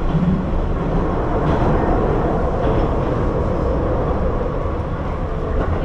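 Keihan Line electric train running, heard from inside the passenger carriage: a steady rumble of wheels and running gear with a faint steady hum.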